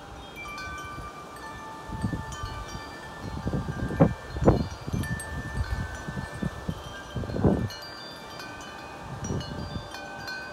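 Wind chimes ringing in strong wind, many overlapping tones at different pitches. Gusts buffet the microphone, loudest about four seconds in and again at about seven and a half seconds.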